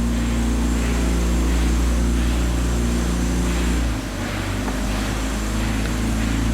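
Tour boat's motor running steadily with a low hum; about four seconds in, the hum drops and changes pitch briefly, then steadies again.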